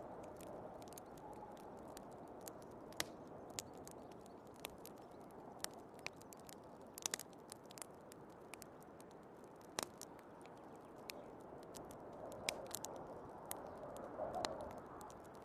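Wood fire crackling with many irregular sharp pops and snaps, over a steady low rush of snowstorm wind that swells a little near the end.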